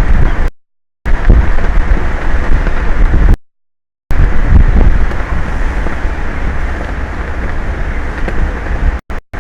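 Wind buffeting an outdoor microphone: a loud, rumbling noise heaviest at the low end. The audio cuts out to silence for a moment about half a second in, again for most of a second about three and a half seconds in, and in short gaps near the end.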